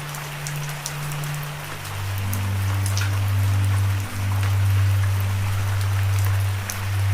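Steady rain hissing, with scattered individual drops ticking. Under it runs a low steady droning tone that drops to a lower pitch about two seconds in.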